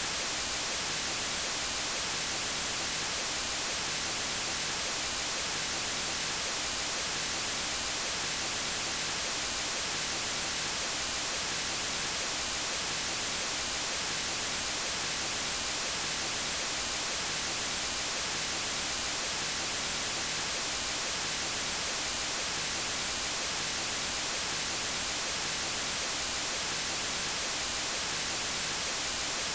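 Steady electronic white noise: an even hiss, strongest in the high end, with no change in level.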